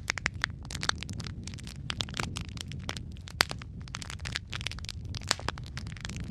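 Wood fire in a fireplace crackling: dense, irregular sharp pops and snaps over a steady low rumble of burning, with one louder pop about halfway through.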